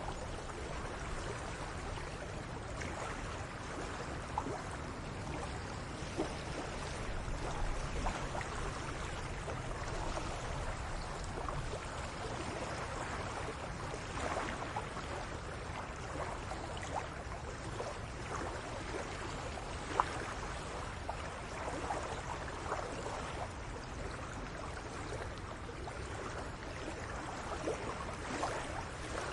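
Outdoor ambience: a steady rushing noise with a low rumble, and scattered faint clicks throughout.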